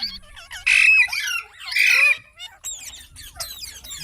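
Indian ringneck parrot giving two loud, harsh squawks about a second apart, followed by a run of quicker, quieter chirps and whistles.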